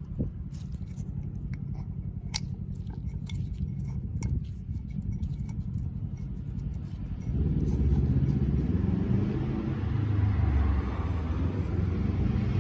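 Toyota Mark X engine idling with a steady low rumble, a few light clicks over it in the first half. About seven seconds in it becomes louder and fuller.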